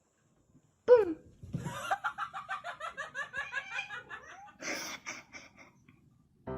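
A short, loud cry falling in pitch about a second in, then a person laughing hard in rapid bursts for about three seconds, ending in a breathy gasp.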